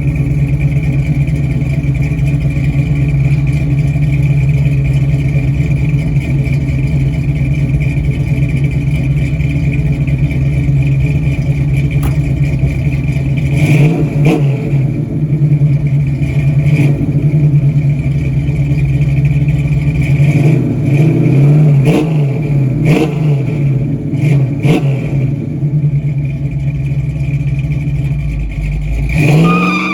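1968 Ford Mustang's 302 V8, with a Comp Cams 268H cam, long-tube headers and Flowmaster 40 series mufflers, idling steadily at around 900 to 1,000 rpm. It then blips the throttle once about halfway through, gives a quick run of revs a few seconds later, and starts to climb in revs near the end.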